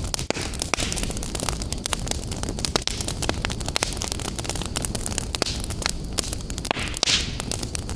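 Wood fire burning in a fireplace: a steady low rumble and hiss with many sharp crackles and pops, and a brief louder hiss about seven seconds in.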